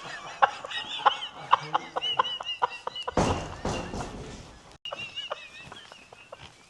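Old church door creaking on squeaky hinges in wavering high squeals, with clicks and knocks. A loud rushing noise comes in the middle.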